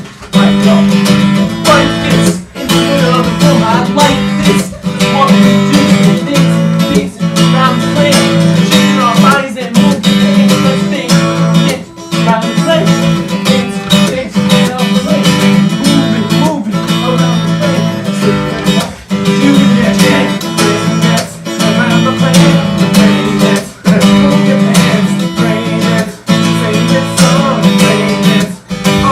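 Acoustic guitar music, strummed steadily, with short regular breaks every couple of seconds.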